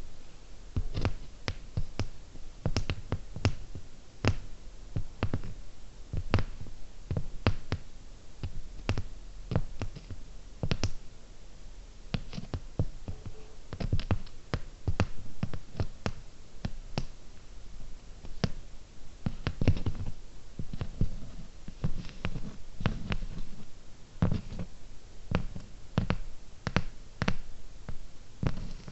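Slow, irregular fingernail tapping on cubic zirconia gems: sharp little clicks about two a second, some with a soft low knock.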